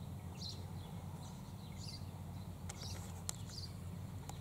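Small birds chirping faintly in short high calls, repeated every half second or so, over a steady low rumble, with a few sharp clicks in the second half.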